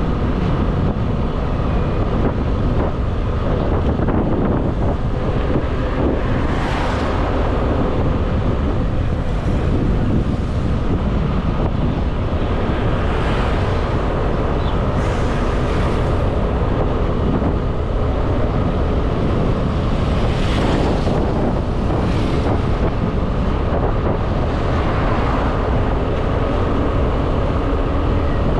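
Wind buffeting the microphone on a moving motorbike, with the bike's engine running steadily underneath. A few brief louder hissing swells come and go along the way.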